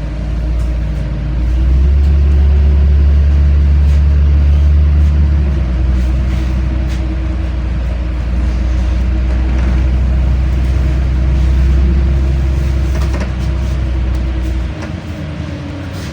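LiAZ-5292 city bus engine heard from inside the cabin as the bus pulls away. The engine note rises over the first couple of seconds, then runs loud and steady under load, and it eases off near the end.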